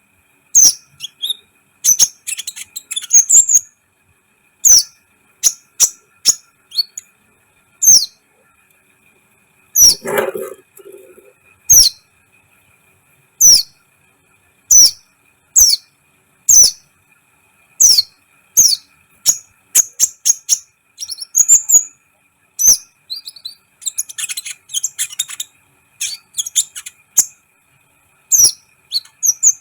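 Kolibri ninja sunbird calling: short, sharp high chirps repeated about once a second, broken by quicker runs of twittering. There is a brief lower sound about ten seconds in.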